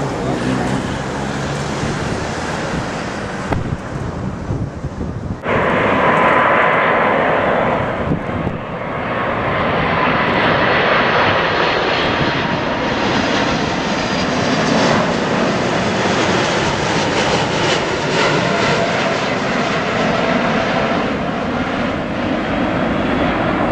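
Airbus A380's four jet engines at takeoff thrust: a loud, steady roar that suddenly gets much louder about five seconds in and then holds.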